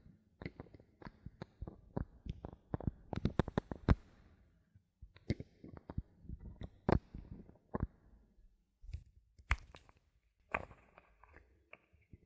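Bottle caps handled close to the microphone: an irregular run of sharp plastic clicks, taps and scratches. The clicks come in a dense flurry around three to four seconds in, then turn to sparser single taps with short pauses.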